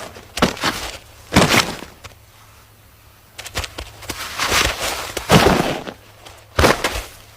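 Male giraffes necking: heavy blows of neck and head against the rival's body, about half a dozen irregular thuds with scuffling in between.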